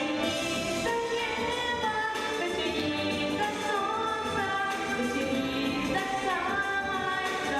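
Singing over a steady instrumental accompaniment, a song performed by a children's vocal group.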